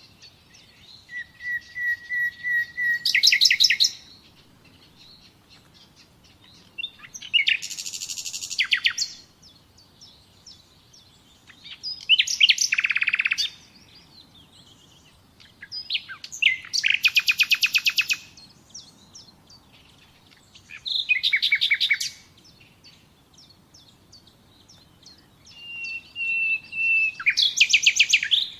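A songbird singing: six phrases about four to five seconds apart, each a run of fast repeated notes that build into a loud, rapid trill, some opening with a thin steady note.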